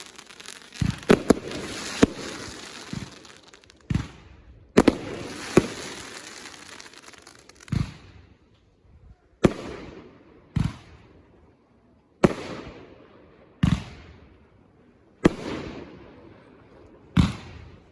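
Consumer fireworks going off. A quick cluster of sharp bangs with a crackling hiss comes in the first few seconds. Then single bangs follow about every one and a half seconds, each with a fading crackle after it.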